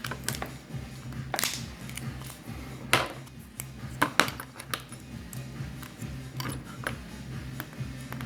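Background music with a steady low beat, over sharp clicks and light metallic taps of small repair tools and parts, about a dozen times, the loudest about three and four seconds in.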